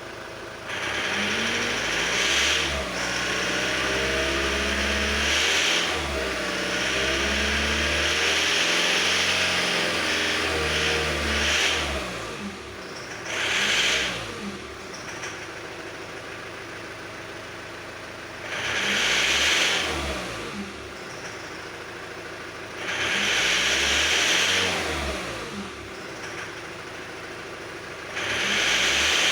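Car engine idling and being revved: one long rev near the start, then four short blips, each with a metallic ringing knock that comes in on throttle. The ignition timing has been adjusted, and the ringing at revs remains.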